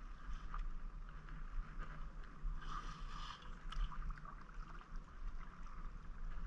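Kayak paddling: water splashing and dripping off the paddle in small ticks and splashes, with a louder splash about three seconds in, over a steady low rumble.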